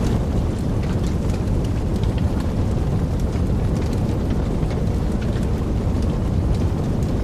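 Wood fire burning in a fireplace, crackling: many small irregular pops over a steady low rush of flame.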